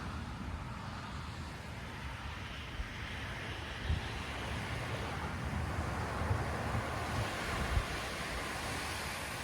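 Ocean surf washing onto a beach, a steady rushing that swells toward the middle, with wind buffeting the microphone in a few brief low gusts.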